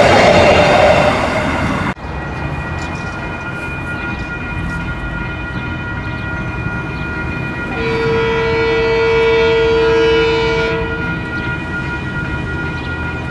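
A passing passenger train's coaches make a loud rolling rumble that cuts off about two seconds in. Then distant DFB-class diesel-electric freight locomotives run steadily and sound one long horn blast of about three seconds.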